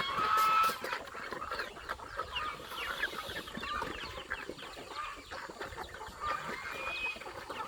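Chickens clucking, a dense run of short calls with a louder, longer call in the first second.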